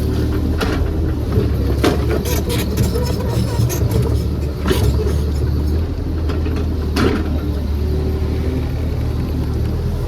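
JCB JS30 Plus mini excavator's diesel engine running steadily under work, with several sharp metallic clanks and knocks from the bucket and arm as the last of the soil is levelled.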